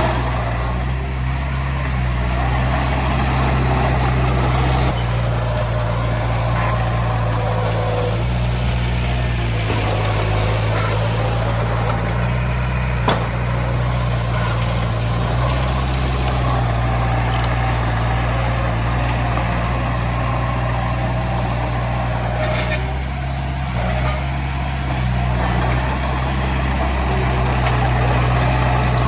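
Diesel engine of heavy earthmoving machinery running steadily, its engine speed shifting up and down a few times as it works. A single sharp click about halfway through.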